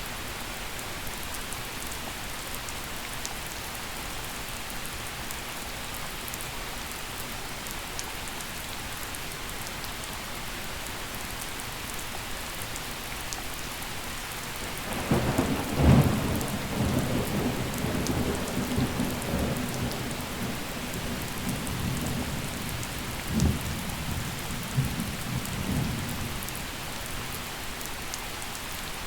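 Steady gentle rain hissing on the ground, with a roll of thunder about halfway through: a sharp crack followed by about ten seconds of low rumbling, with a second smaller crack near the end of the rumble.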